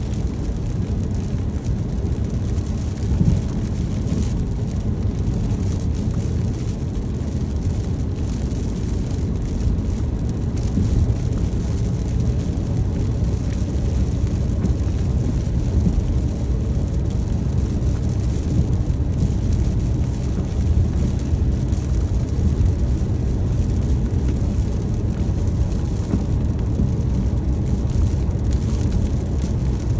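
A car driving in the rain: a steady low road and engine rumble under an even hiss of rain on the car.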